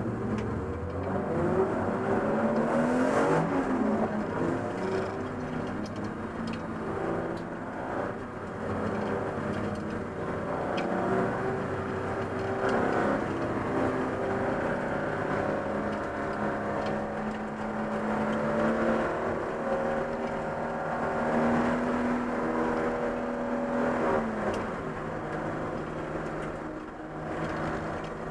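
Racing car's engine heard from inside the stripped cabin, revving and pulling through the gears as it accelerates. The pitch climbs a few seconds in, holds steady for a stretch later on, and falls away near the end as the driver lifts off.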